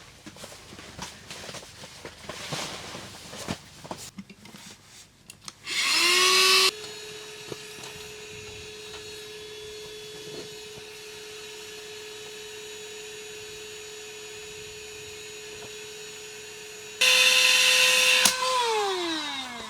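Clicks and handling rustles, then a small electric air pump's motor spins up with a rising whine about six seconds in. It runs steadily at one pitch, louder for about a second at the start and again just before it stops, then winds down with a falling pitch near the end.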